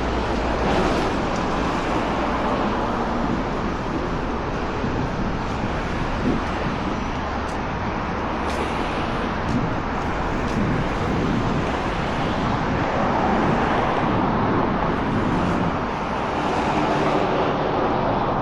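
Steady road traffic noise from vehicles passing on a busy city street.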